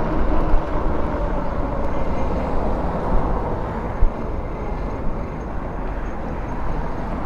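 Wind rushing over the microphone with tyre and road noise from a moving e-bike, a steady low rumbling hiss, with a single knock about four seconds in.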